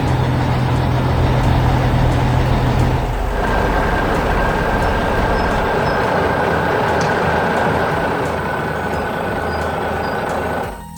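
Heavy vehicle engine running loudly. A low hum drops away about three seconds in and a higher whine runs over the engine noise until it all cuts off just before the end.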